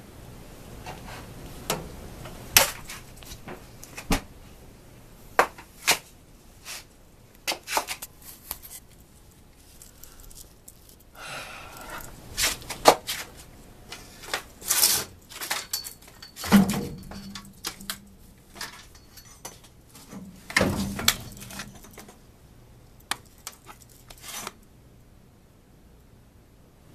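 Irregular clicks, knocks and rustling of small objects being handled, with two heavier thumps in the second half.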